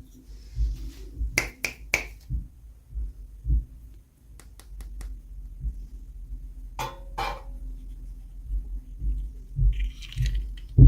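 Hands unboxing toys, making a scattering of sharp clicks and taps over soft low bumps: three close together early, a few more around the middle, and two louder ones about seven seconds in.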